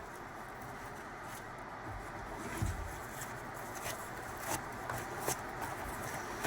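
Steady rush of flowing river water, with a few light clicks and knocks in the middle.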